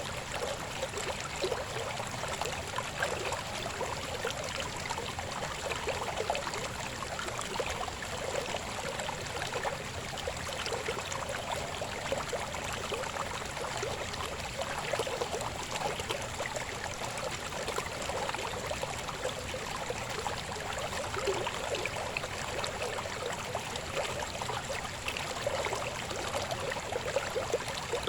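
A shallow river babbling and splashing steadily over rocks.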